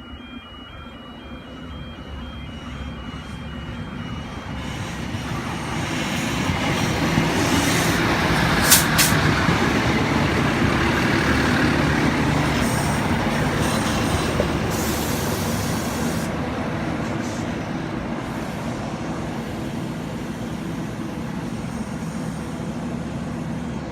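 Endeavour diesel railcar set pulling out of the platform: a run of short warning beeps, then its diesel engines build up and run loud for several seconds before slowly fading as the train moves off.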